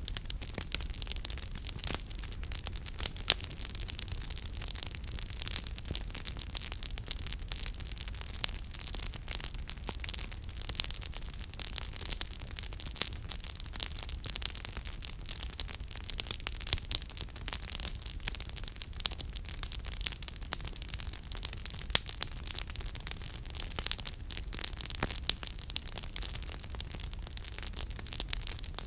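Campfire crackling: dense, irregular pops and snaps of burning firewood, with a few sharper, louder pops, the loudest about three-quarters of the way through. A low steady rumble runs underneath.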